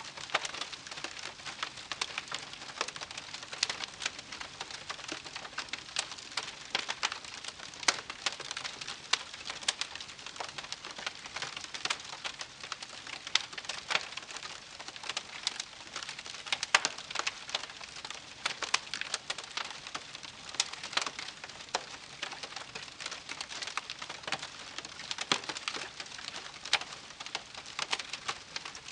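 Wood campfire crackling: many irregular sharp pops and snaps over a soft steady hiss.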